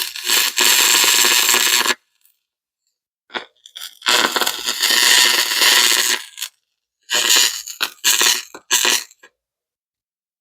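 Pulsed laser cleaner ablating the last small spots of carbon off an engine cylinder, heard as three loud bursts of hiss of about two seconds each with short pauses between.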